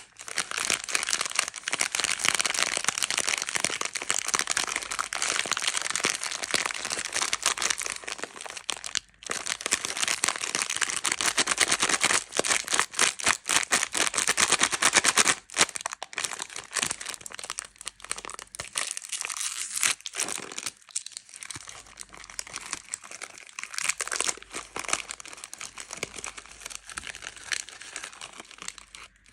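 Plastic candy wrappers being crinkled and handled, a dense crackling run of many sharp crackles that grows softer and more scattered about halfway through.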